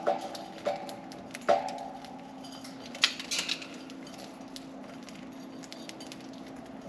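Light taps and clicks: three knocks with a short ring in the first second and a half, a quick cluster of sharper clicks about three seconds in, then scattered faint ticks, over a steady low hum.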